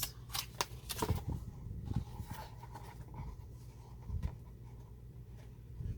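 A chipboard scrapbook album and its pages being handled: a few light taps and rustles, most of them in the first two seconds.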